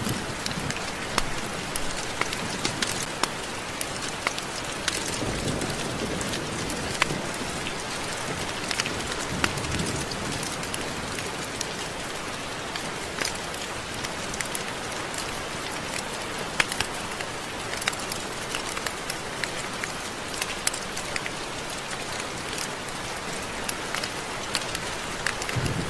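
Steady rain falling, with many individual drops ticking sharply against a surface over an even hiss.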